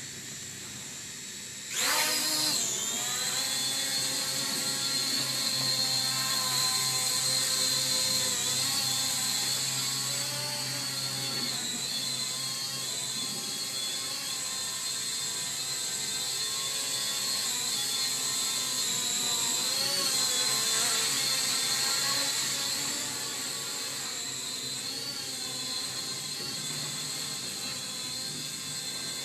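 Small drone's motors spinning up with a quick rising whine about two seconds in, then the steady high-pitched whine of its propellers, wavering in pitch as it flies and easing off somewhat after about twenty seconds.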